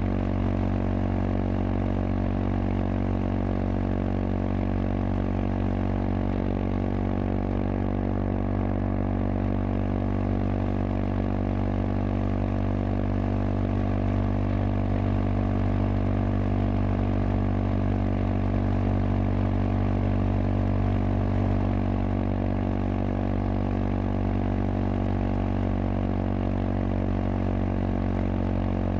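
Kawasaki KLX230SM's single-cylinder engine running through a K-Factory FRC slip-on silencer, held at steady revs while the bike cruises.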